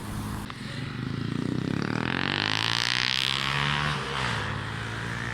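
A motor vehicle passes close by on the road. Its noise swells to a peak about three seconds in, and its engine note drops in pitch as it goes past.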